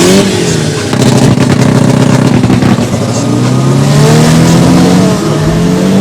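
Drag-racing car engine revving hard, loud. Its pitch climbs twice, about three seconds apart, and holds at high revs in between.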